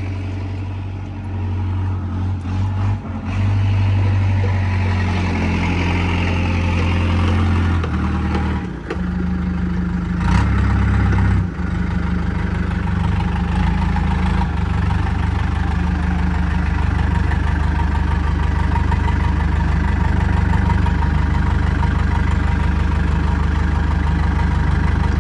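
Backhoe's diesel engine running. Its speed shifts up and down several times in the first dozen seconds, then holds steady.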